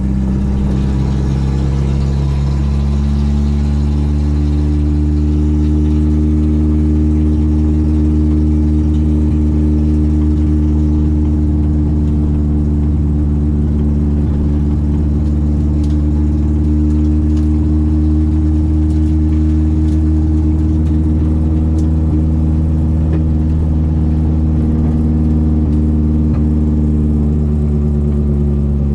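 Citroen AX 8-valve four-cylinder engine with twin Weber 40 carburettors running at steady, fairly low revs, the pitch rising slightly early on and easing back down near the end.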